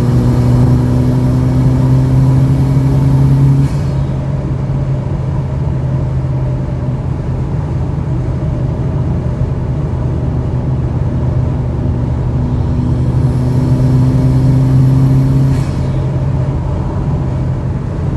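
A car's engine running under load, its pitch creeping slowly upward and then dropping abruptly, twice: once about four seconds in and again near the end.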